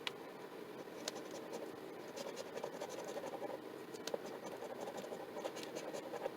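Scratch-off lottery ticket being scratched: light, uneven scraping of the coating off the card, with scattered small ticks.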